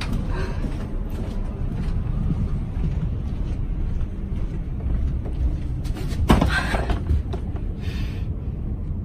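Steady low rumble of aircraft cabin background noise, with one brief louder sound about six seconds in.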